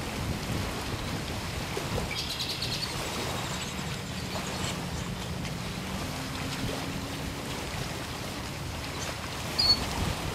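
Steady outdoor background noise with small birds calling: a quick high trill about two seconds in, then short, sharp high chirps near the end. A faint low hum runs through the middle.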